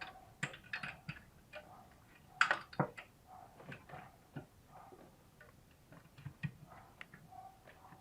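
Irregular light metallic clicks and small knocks from a wrench on a hard-to-reach bolt being worked loose a little at a time, with a couple of louder knocks about two and a half seconds in.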